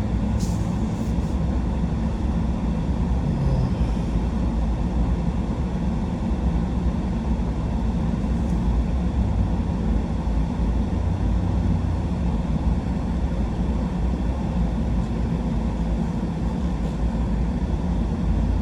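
Pickup truck driving along, with steady engine and road noise heard from inside the cab.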